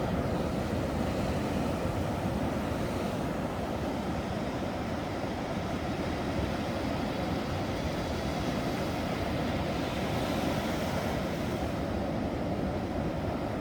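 Ocean waves breaking: a steady low rush of surf that swells gently a couple of times.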